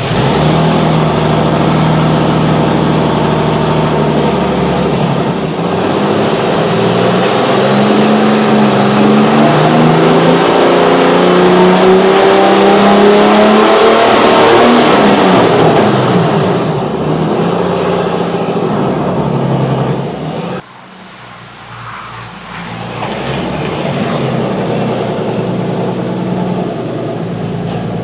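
Nissan 350Z's V6 engine running through a new Invidia Gemini cat-back exhaust with mufflers, having just started. It runs steadily at first, then its pitch climbs over several seconds and falls back, and the sound drops off sharply about twenty seconds in before rising again.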